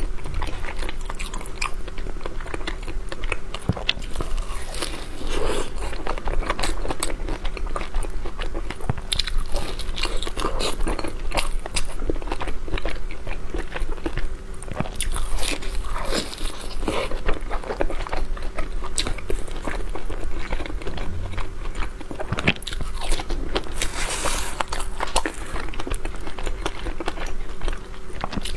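Close-miked eating: biting into and chewing a snow-skin taro paste pastry with egg yolk filling, with many small irregular mouth clicks and smacks. A faint steady hum runs underneath.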